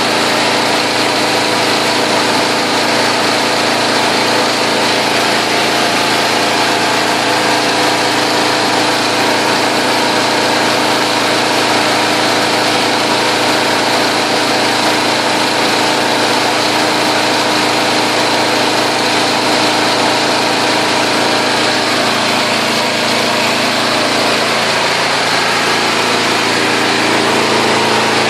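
Engine of a portable hydraulic tube-well drilling machine running steadily, its note shifting slightly about three-quarters of the way through.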